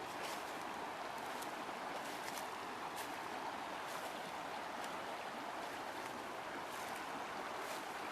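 River water flowing steadily, with a few brief high ticks scattered through it.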